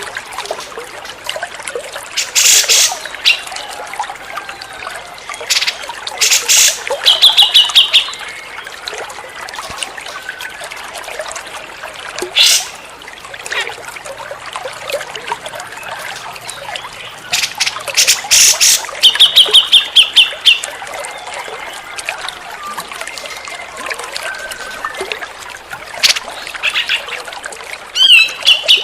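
Grey-cheeked bulbul (cucak jenggot) calling repeatedly: loud, sharp notes in short clusters, and a few rapid trilled series of notes, one near the end. Steady trickling water runs beneath.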